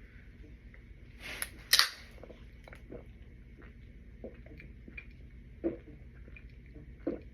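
A Bud Light can opened with a short, loud double hiss of escaping fizz about a second and a half in, then soft gulps as the beer is chugged, one swallow about every second and a half.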